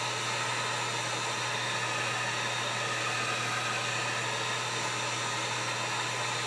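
Handheld heat gun blowing hot air steadily over an iPad's screen to heat it up before the glass is lifted, a constant rushing noise with a low hum under it.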